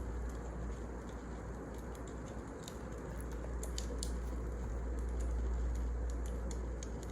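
Wood fire burning in a fireplace: a steady low rush with scattered crackles and pops, a small cluster of them about three to four seconds in.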